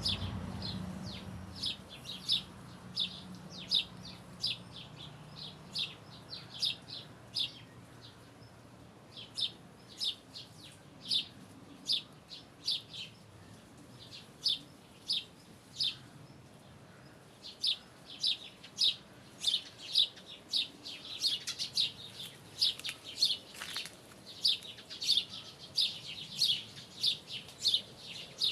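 Small songbirds chirping: a steady series of short, high chirps, roughly two a second, with a couple of brief lulls.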